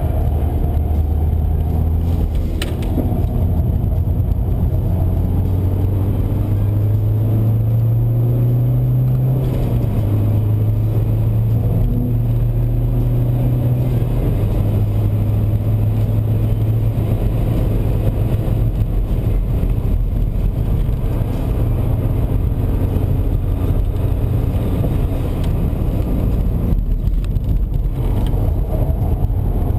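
BMW 123d's twin-turbo four-cylinder diesel pulling hard, heard from inside the cabin over steady tyre and wind noise. The engine pitch climbs and drops about a third of the way in and again near halfway, as it shifts up.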